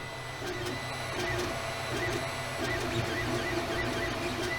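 3D printer running, its stepper motors whining in short pitched tones that change and stop every fraction of a second as the print head moves.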